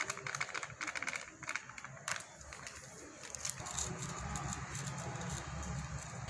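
Small clicks and rattles of ingredients and kitchen containers being handled while the cornflour is added, followed from about three and a half seconds in by a low steady rumble.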